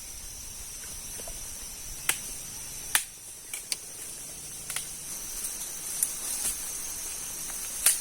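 Insects chirring steadily in a high, even band, with a few sharp clicks or snaps, about six, scattered through.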